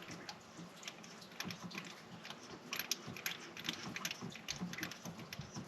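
Ratchet wrench clicking in short, irregular runs while a spark plug is worked out of the engine.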